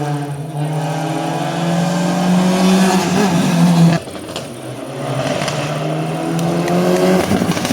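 Rally car engine at full throttle, its note rising as it accelerates; about four seconds in it cuts abruptly to another rally car accelerating the same way.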